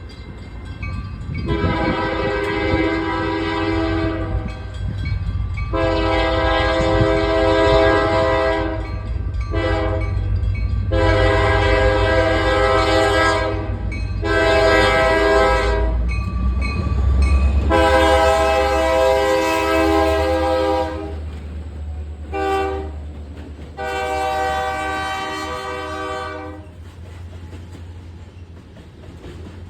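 Diesel locomotive horn sounding the grade-crossing signal, long, long, short, long, and then the same pattern again, over the low steady rumble of the Huron & Eastern train's diesel engine, which fades near the end.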